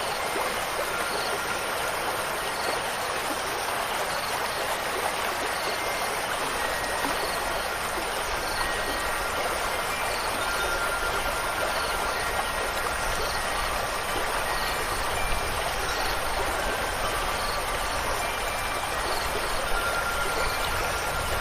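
Steady rushing water, like a flowing stream. Faint wind chime tones ring now and then through the second half, and a low rumble comes in about a third of the way through.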